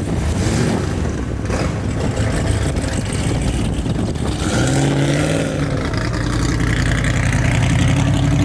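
A performance car's engine accelerating. The engine note rises about halfway through and keeps climbing toward the end.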